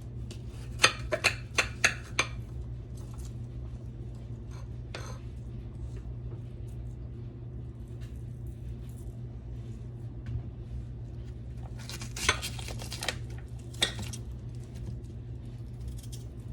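Kitchen knife slicing an onion on a cutting board: a quick run of about six sharp chops about a second in, then scattered knocks and clinks later on, over a steady low hum.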